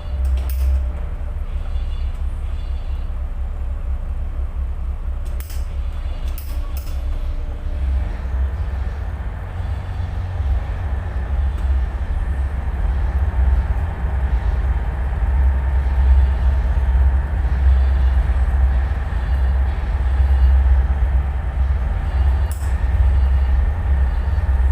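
Tugboat's diesel engines running with a deep, steady rumble, getting louder from about eight seconds in as the tug works under load towing a barge. A few faint clicks sound briefly.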